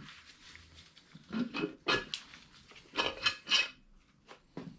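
Metal tools and engine parts clinking and clattering in a quick series of knocks with a light metallic ring, busiest about two seconds in and again near the middle to three-quarters of the way through.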